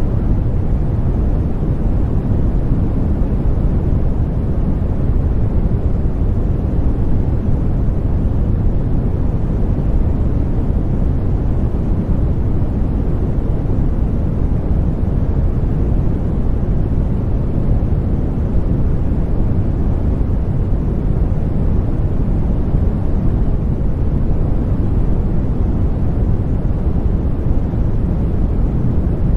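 Continuous sleep-aid noise for babies: a steady, deep rushing noise heavy in the low end with little hiss, unchanging throughout.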